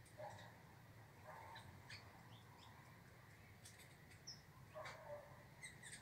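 Faint wild bird calls: a few short chirps and calls scattered through, the clearest one about five seconds in.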